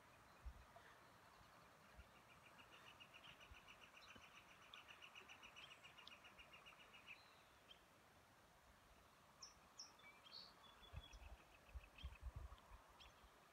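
Faint outdoor quiet with a bird singing: an even, rapid trill lasting several seconds, then a few scattered short chirps. A few low thumps come near the end.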